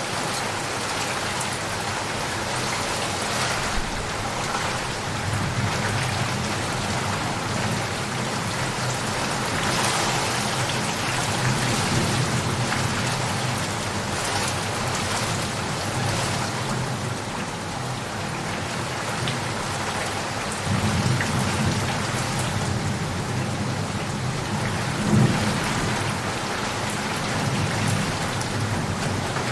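Steady heavy rain falling, with low thunder rumbling: a long roll from about five seconds in, another about two-thirds of the way through, and a short louder rumble shortly after.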